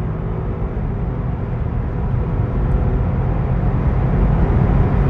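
BMW 118i's 1.5-litre turbocharged B38 three-cylinder engine running under way with tyre and road noise, growing steadily louder.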